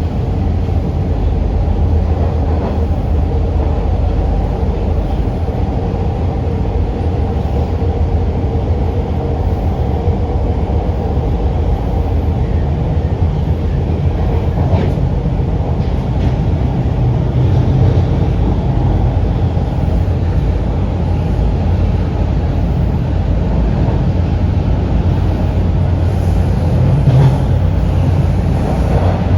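TTC Line 2 subway train running between stations, heard from inside the car: a steady rumble of wheels on rail with a steady hum from the motors.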